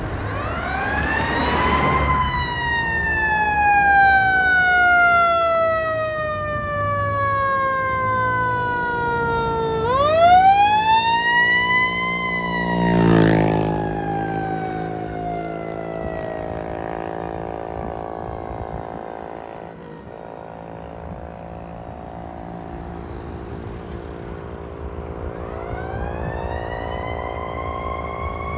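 Fire engine siren sounding as the truck responds: a rising wail that falls slowly over about eight seconds, rises and falls again, fades away, and starts rising again near the end. There is a short loud burst about thirteen seconds in, and a steady engine drone underneath.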